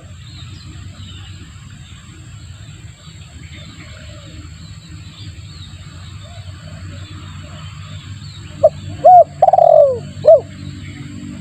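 Spotted dove (tekukur) cooing as a lure call: a few soft coos, then about nine seconds in a loud phrase of short coos with one longer falling note in the middle. A steady low hum runs underneath.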